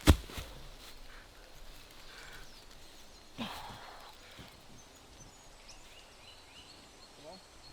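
A single heavy, sharp thud at the start, typical of a heavy natural object such as a log or stone landing on the ground during a strongman press event. About three seconds later comes a short breathy burst, and faint bird chirps follow near the end.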